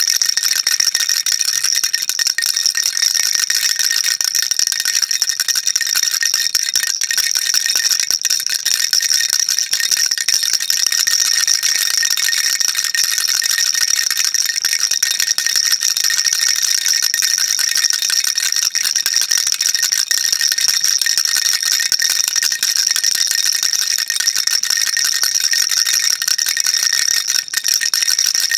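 Baby rattle shaken continuously, a dense unbroken rattling of small beads or pellets inside a plastic shell, bright and high-pitched.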